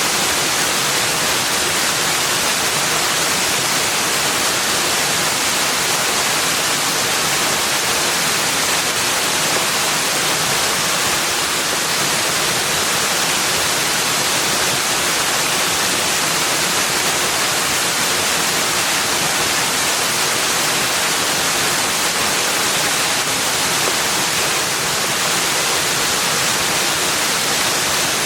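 Steady, unbroken rush of running water, an even hiss with no separate splashes, calls or other events.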